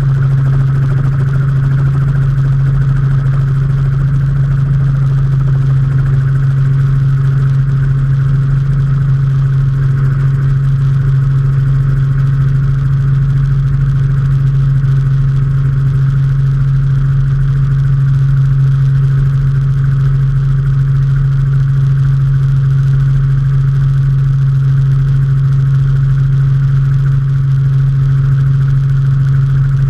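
Robinson R44 helicopter in flight, its engine and rotors making a loud, steady drone with a strong low hum that does not change.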